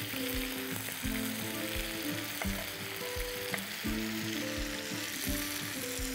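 Chicken pieces, ginger and freshly added pineapple with its juice sizzling steadily in hot oil in a non-stick frying pan. A few light clicks come from a spatula scraping the pineapple off a wooden board into the pan. Background music plays underneath.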